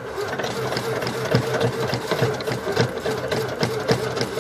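The 1986 Dodge Ram van's starter cranking the cold engine in a steady rhythm without it catching, on a battery that has run a little low after months of sitting; the cranking stops just at the end.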